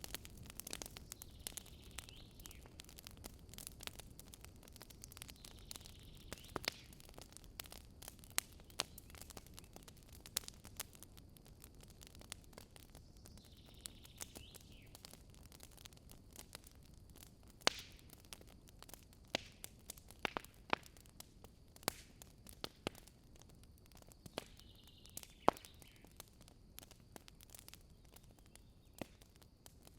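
Wood campfire crackling: a steady scatter of irregular sharp pops and snaps, a few louder ones standing out, over a soft low rush of burning.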